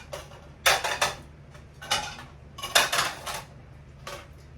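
Plates clinking and clattering against each other as they are lifted out of a dishwasher rack and stacked, in a handful of sharp knocks a second or so apart.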